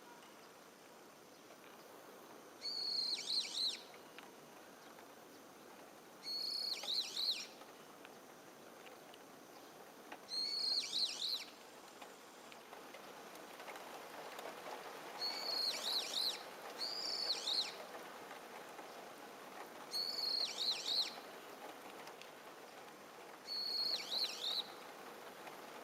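A bird singing the same short, high phrase of quick descending notes over and over, about seven times, with a pause of a few seconds between phrases. A faint steady hiss lies underneath.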